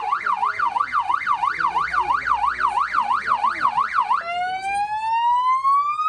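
Police car's electronic siren sounding a fast yelp, its pitch sweeping up and down about three times a second. About four seconds in it switches to a slow rising wail.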